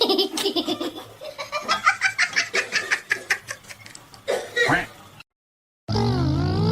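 A person laughing hard in a long run of quick bursts, which breaks off about five seconds in. After a moment of silence a loud steady sound with sliding pitches starts near the end.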